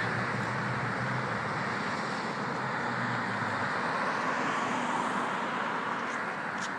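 Steady street traffic noise with a faint low hum that fades about halfway through.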